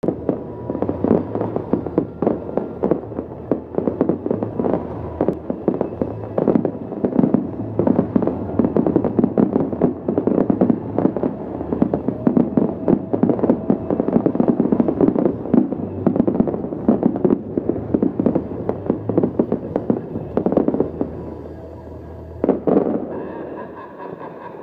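Fireworks display barrage: a dense, rapid run of bangs and crackles, the closing salvo of the show, with one last loud bang near the end before the firing dies away.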